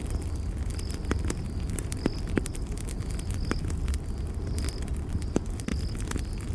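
Campfire crackling with irregular sharp pops over a steady low rumble of the burning fire, while crickets chirp in short high pulses about once a second.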